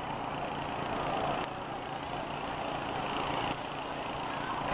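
Engines of the school buses in a demolition derby running and revving, a continuous mechanical din that swells and eases.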